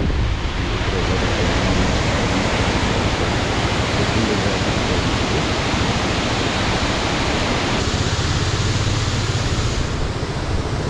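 Steady rush of wind over the microphone of a moving motorcycle, with the bike's low engine drone beneath; the hiss eases slightly in the highs about eight seconds in.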